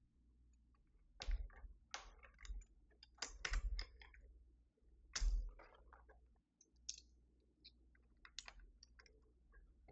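Single keys on a Keychron V6 Max mechanical keyboard being pressed one at a time, irregular clacks often a second or so apart, with a few quick pairs, as keys are tried out rather than typed on.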